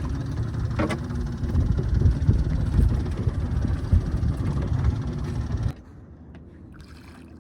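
Boat engine running with a steady low rumble, one short knock about a second in; it cuts off suddenly near the end, leaving a much quieter background.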